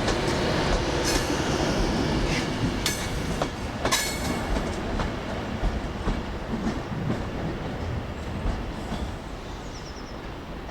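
Train moving through the station, its wheels clicking over rail joints with a faint squeal. The running sound fades steadily as the train draws away.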